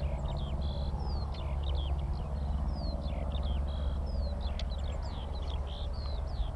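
Skylark song: a continuous, rapid stream of varied chirps and short warbled phrases with no pauses. Beneath it runs a steady low engine drone, which is the loudest sound.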